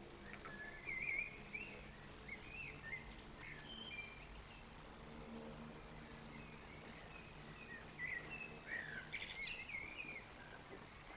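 Faint songbird singing in short, quick warbling phrases, heaviest near the start and again near the end, over a low steady hum.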